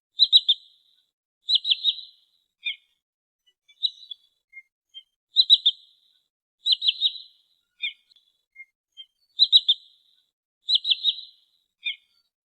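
Sandpiper (trinil) calls: quick, high, clear notes in clusters of about three, two clusters followed by a single lower note, the sequence repeating about every 4 seconds as a looped lure recording.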